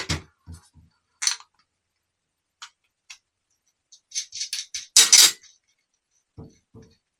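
Scattered light metal clicks and clinks of a spanner and small parts being worked off a starter motor's solenoid terminal stud, with a quick run of clinks and a louder clatter about five seconds in, then two soft knocks.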